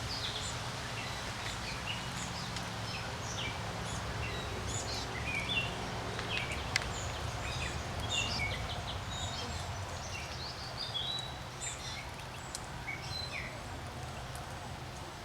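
Several birds calling outdoors, many short chirps and quick notes scattered throughout, over a steady low background hum.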